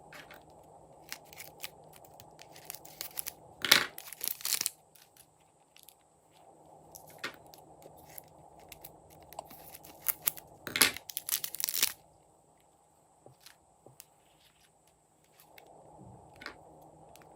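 Slime being mixed by hand with add-ins: irregular sticky clicks, crackles and crunches, with two louder spells of dense crackling about four and eleven seconds in.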